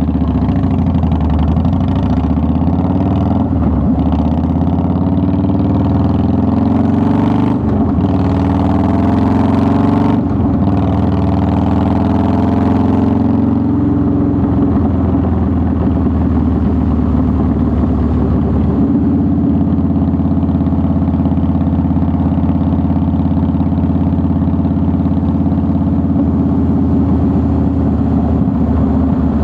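2009 Harley-Davidson Softail Deluxe's air-cooled V-twin running, its pitch rising and falling with changes in speed through the first half, with two brief rushes of hiss, then holding a steady note.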